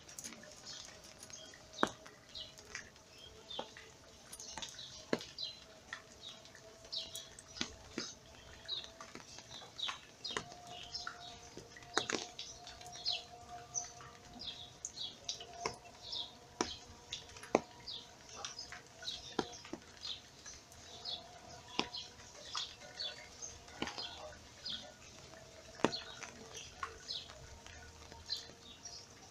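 Small birds chirping over and over in short high calls, with scattered sharp ticks and a faint steady hum underneath.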